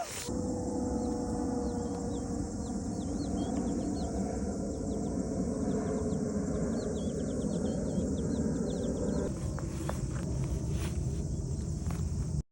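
Outdoor ambience: a steady high insect drone, with faint small bird chirps over the first two-thirds and a low rumbling noise underneath.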